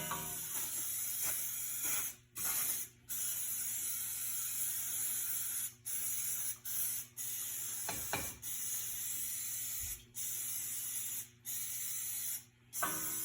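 Aerosol brake cleaner hissing out of the can onto the bare wheel hub in long bursts, with brief pauses between them.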